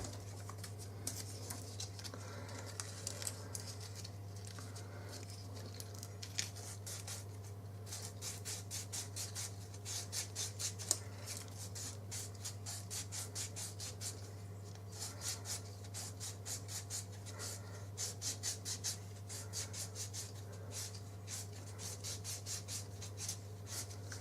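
Sandpaper strip being twisted round by hand inside a tight rear guide: runs of quick rasping strokes, about three a second, with short pauses, over a steady low hum. The guide is being sanded out so the cylinder slides in without resistance.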